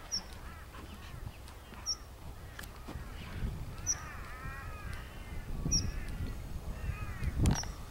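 Bird calls: groups of short, harsh calls that rise and fall, starting about three seconds in, over a low rumbling background. A faint high tick comes about every two seconds, and there is a loud knock near the end.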